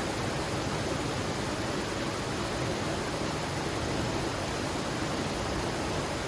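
Mountain stream rushing steadily, swollen and fast-flowing with rainy-season water.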